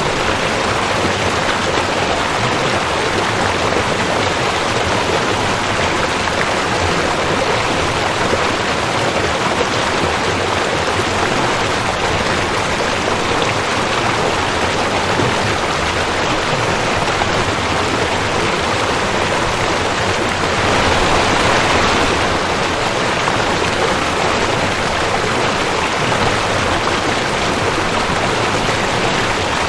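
Rushing creek water flowing steadily, a continuous splashing rush that swells briefly about two-thirds of the way through.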